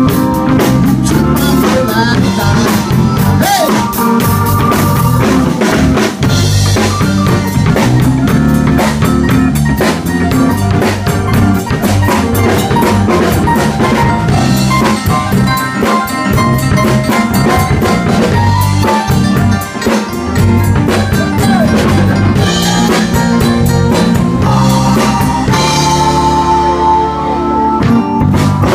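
Live blues band playing an instrumental stretch, with the drum kit's snare, rimshots and bass drum to the fore over a walking bass line. Near the end the band holds one long note.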